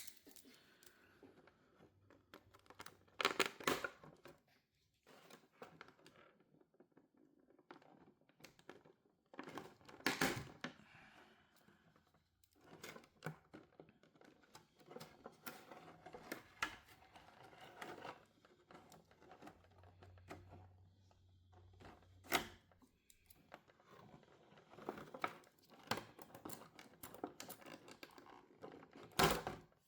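Action figure packaging being handled: plastic and paper crinkling and tearing in irregular rustles, with a few louder rips or crackles spread through.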